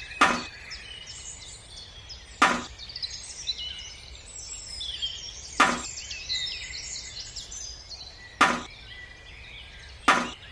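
Five sharp knocks, two to three seconds apart, over a steady chorus of chirping birds.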